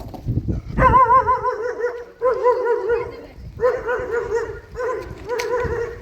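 A dog whining in a run of long, wavering, high cries, each about a second long with short breaks between them.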